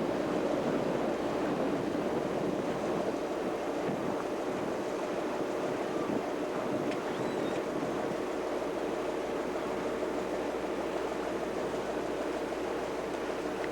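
A boat's engine running steadily with an even hum, over water rushing and wind on the microphone.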